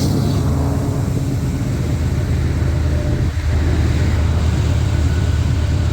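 Head-end diesel-electric locomotives of a heavy loaded coal train working at full throttle (notch 8) up a grade, a steady deep rumble.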